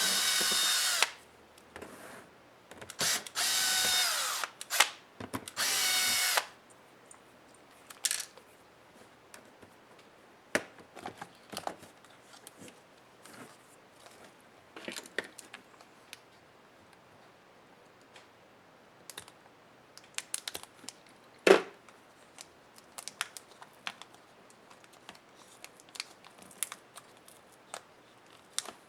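Small electric screwdriver whining in three short runs in the first six seconds as it drives laptop screws, then light clicks and rattles of small parts and plastic being handled, with one sharper click a little past the middle.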